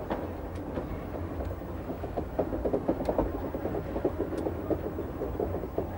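Schynige Platte rack-railway train running, with a steady low rumble and a rapid, irregular clatter over the track that grows busier about two seconds in.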